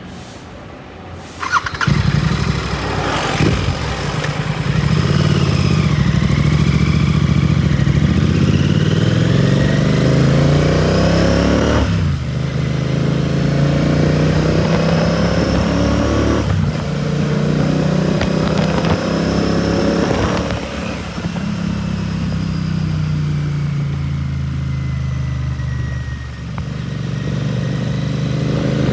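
Royal Enfield Continental GT 650's parallel-twin engine through a Red Rooster aftermarket exhaust. It comes in loud about two seconds in, then pulls away with the pitch climbing and dropping off at several gear changes.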